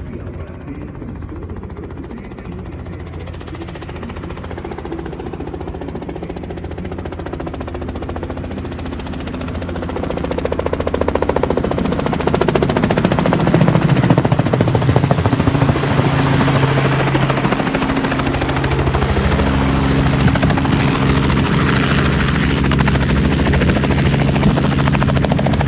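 Helicopter coming in to land, its rotor and engine growing steadily louder over the first half, then holding loud and steady with a low rotor beat.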